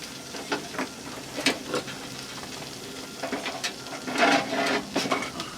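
A wood stove being stoked: a series of sharp knocks and clunks as wood is handled and loaded into the firebox, with a longer, louder clatter about four seconds in.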